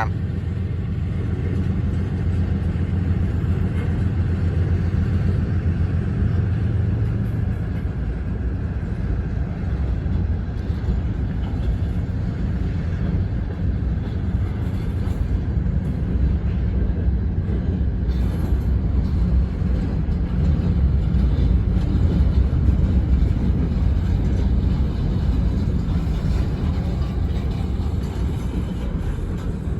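Diesel locomotives of a train running with a steady low rumble as the train pulls out, swelling slightly about two thirds of the way in.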